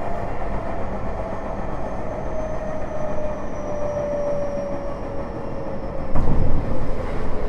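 Tokyo Metro 05 series train heard from inside the car: its Mitsubishi IGBT-VVVF inverter and traction motors whine in two thin tones that slowly fall in pitch as the train slows, over the steady rumble of wheels on rail. A brief louder thump comes about six seconds in.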